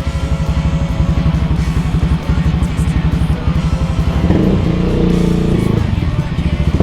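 Small motorcycle engine running, with rapid even firing pulses; the note shifts and gets louder about four seconds in.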